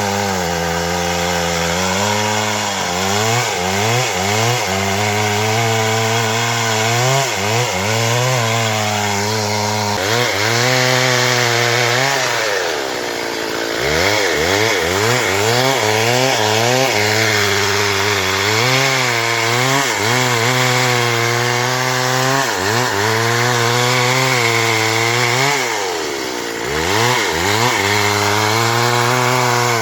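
Stihl MS 382 two-stroke chainsaw running under load, cutting through wood. The engine pitch wavers with the cut, and twice, about 13 seconds in and again near 27 seconds, it drops sharply before climbing back.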